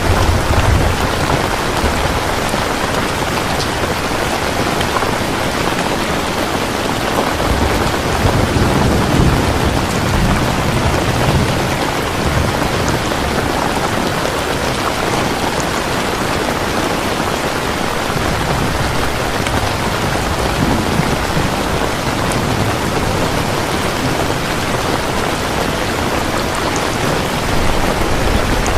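Steady heavy rain falling in an even hiss, with a low rumble swelling about a third of the way in.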